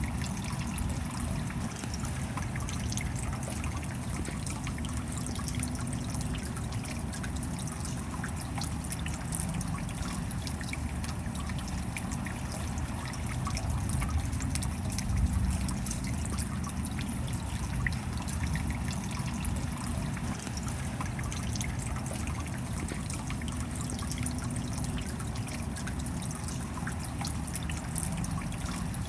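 Steady rain with water trickling and dripping, many small drops ticking over a low rumble, briefly swelling a little about halfway through.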